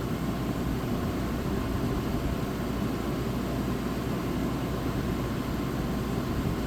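1985 White Westinghouse 5900 BTU air conditioner running steadily and cooling: its fan blows with a constant low hum from its rotary compressor.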